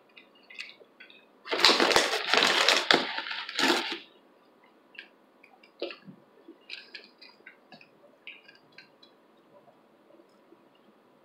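Loud crisp crunching of a tortilla chip being chewed close to the microphone for about two seconds, then scattered soft clicks and smacks of chewing.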